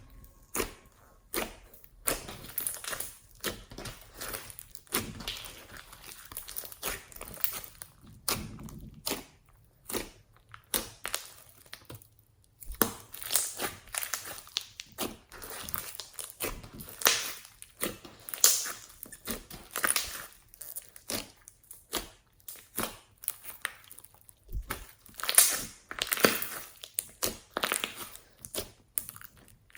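Hands kneading, squeezing and stretching slime, giving an irregular run of sticky crackles, pops and tearing sounds.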